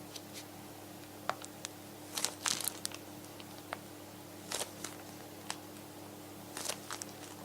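Scattered light clicks and a few short crinkling rustles from hands at work in a kitchen, over a steady low hum.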